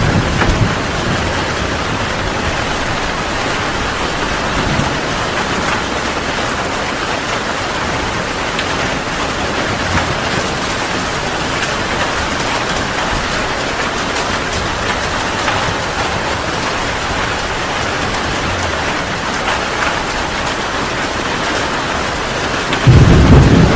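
Heavy rain falling steadily, an even hiss of drops. A loud, low thunder rumble breaks in about a second before the end.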